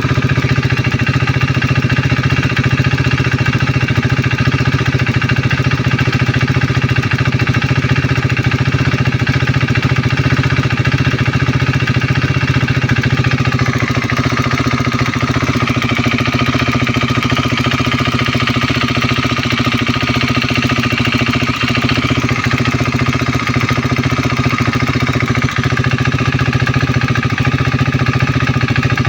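KTM Duke 390's single-cylinder engine idling steadily with a light clicking from the solenoid-operated evaporative purge valve, which the owner says is normal and not from the cylinder head. The engine note shifts slightly about halfway through.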